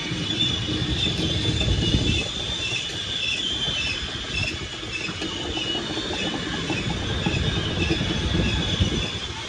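Freight train cars rolling past: a steady high wheel squeal over a low rumble and the clatter of wheels on the rails.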